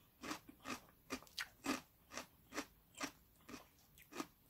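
Crisp crunching of freshly made kkakdugi (cubed radish kimchi) being chewed, a steady run of about two to three crunches a second. The crunch is the sign of firm, crisp radish cubes.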